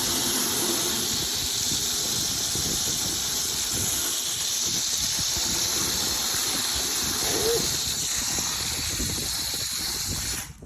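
Water spraying onto the HVAC unit's coils, rinsing off the foaming coil cleaner: a steady hiss that cuts off abruptly near the end.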